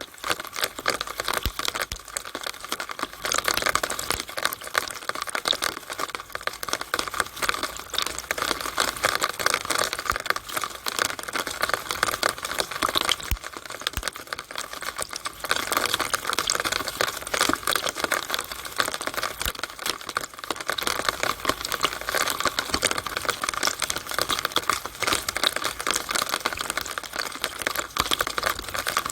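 Rainwater running and splashing through a downspout: a dense, continuous spatter of small drips and splashes.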